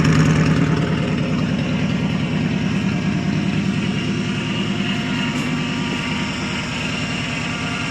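1985 Chevy Suburban engine idling through a straight-pipe exhaust with no muffler, a steady, loud rumble that eases slightly in the first couple of seconds after a cold start. A faint high whine comes up in the latter part, which the owner takes for the power steering needing fluid.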